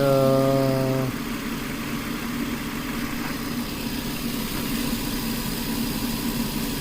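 Nissan 4.0 V6 engine idling steadily under the open hood. In the first second a brief held, slightly falling hum-like tone sounds over it.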